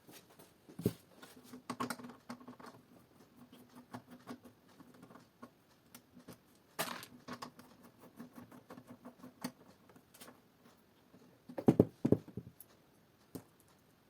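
Hard plastic of a motorcycle top case being handled: scattered clicks and taps with a brief rustle, and a louder cluster of knocks about 12 seconds in.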